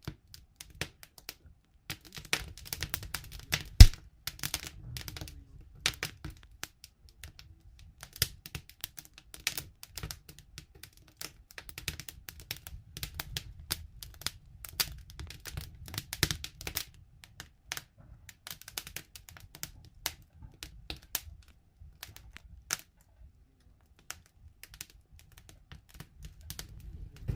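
Wood campfire crackling, with irregular snaps and pops and one sharp, louder pop about four seconds in, over a low steady rumble.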